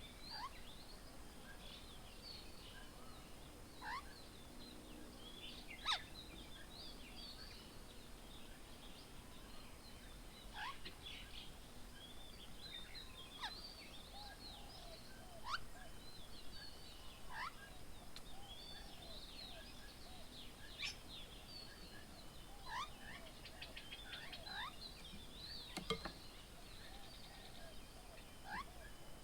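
Birds calling at a feeding table: many short, high chirps and quick rising whistles from several birds, scattered and overlapping, with the odd louder sharp note.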